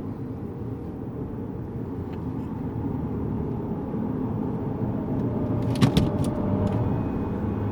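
Lexus GS200t's 2.0-litre turbocharged four-cylinder engine and tyre noise heard inside the cabin, a steady low drone that slowly grows louder. A few sharp clicks about six seconds in.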